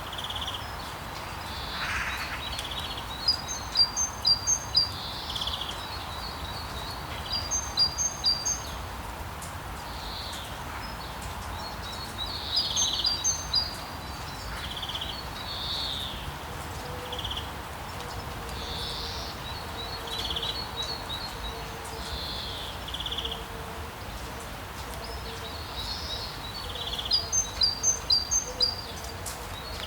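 Steady rain hiss with songbirds chirping over it: quick series of high, sharp chirps come several times, between shorter separate calls.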